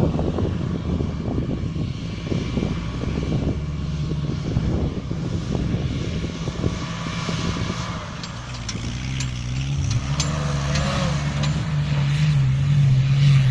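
Strong wind gusting and buffeting the microphone with a rough low rumble. From about eight seconds in, a steady low engine-like hum builds and grows louder.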